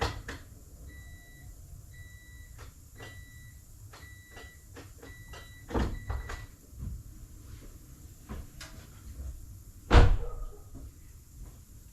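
Electronic warning beep repeating about once a second, with clicks and knocks around it, stopping a little over six seconds in. A single loud knock about ten seconds in is the loudest sound.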